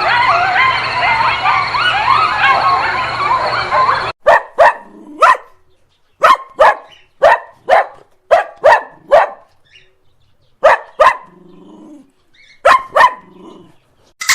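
A dog barking in short, sharp barks, mostly in quick pairs with pauses between. Before the barking, about four seconds of many overlapping high whining calls over a steady hiss, which cut off suddenly.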